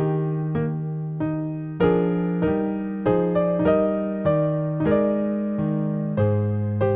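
Slow solo piano music: single notes and chords struck about twice a second, each decaying before the next.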